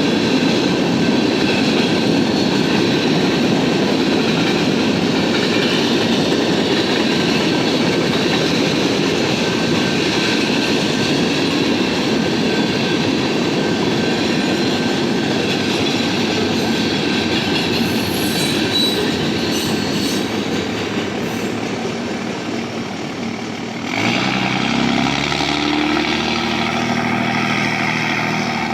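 BNSF freight train cars rolling past: a steady rumble of wheels on rail with clickety-clack and faint wheel squeal. About 24 s in, a pitched engine-like hum starts suddenly and rises slightly in pitch.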